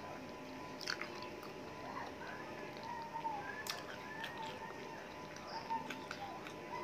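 Chewing and nibbling on a chicken leg bone, with a few sharp clicks and crunches.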